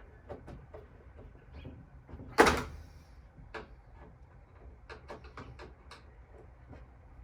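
Metal patio-heater parts and a hand tool being handled: scattered light clicks and taps, with one loud clunk about two and a half seconds in.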